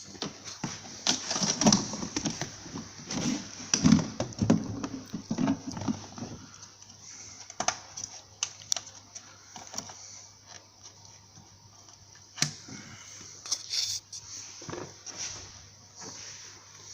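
Irregular clicks, clatter and knocks of hand tools and car parts being handled during work on a car's suspension top mounting. It is busiest, with some low thuds, for the first six seconds or so, then thins to scattered clicks.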